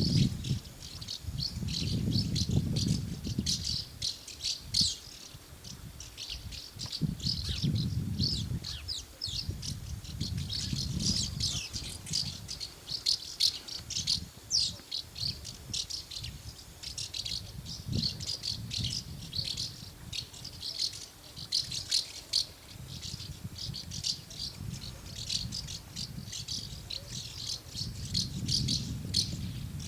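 A flock of swallows twittering: many rapid, overlapping high chirps and chatters with no break. Underneath, a low rumble swells and fades several times.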